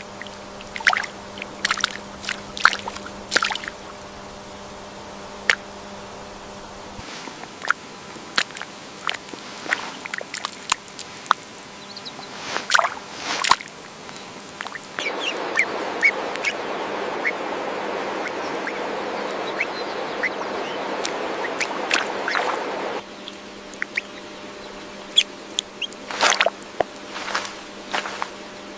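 Wetland ambience of scattered short, sharp bird calls over a steady faint hum, with a rush of running water that cuts in about halfway through and stops abruptly some eight seconds later.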